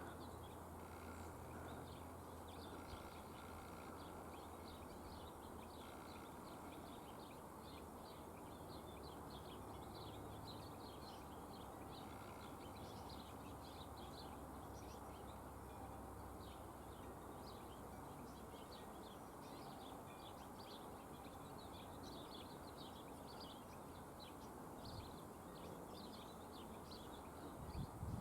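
Faint outdoor background with small birds chirping over and over, under a low steady hum.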